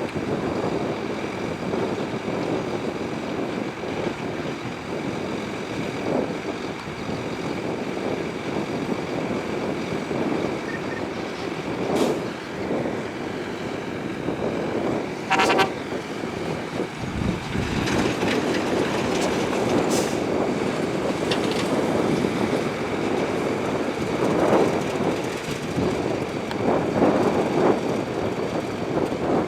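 Diesel engines of heavy earthmoving machinery, a bulldozer and dump trucks, running steadily under load, with a brief horn-like toot about halfway through.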